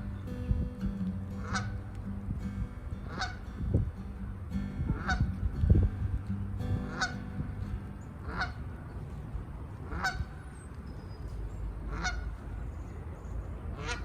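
A goose honking again and again, one call about every one and a half to two seconds, with a low thump or two near the middle.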